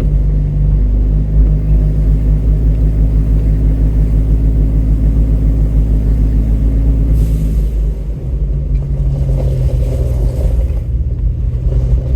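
Off-road vehicle's engine running steadily under way, with a regular low pulse. About eight seconds in the pitch drops a little and the engine settles lower.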